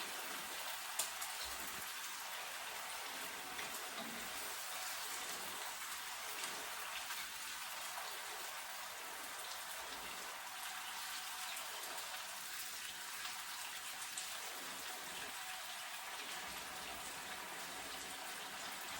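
Chicken wings sizzling in a pan of hot oil with soy sauce, a steady hiss with a couple of small pops.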